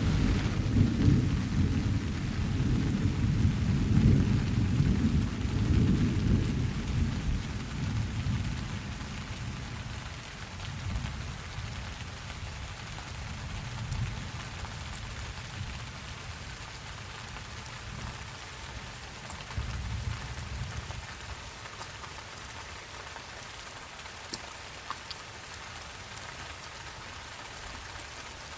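Steady rain falling, with a long roll of thunder at the start that fades away over the first several seconds. A fainter rumble comes near the twenty-second mark, and the rain carries on evenly.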